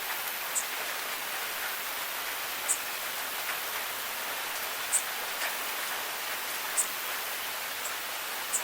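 Steady rain falling, an even hiss, with a few sharp ticks of single drops striking close by, about one every one to two seconds.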